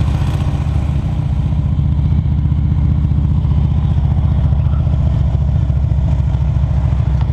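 Motorcycle engine running steadily at low road speed, its firing pulses even and unchanging.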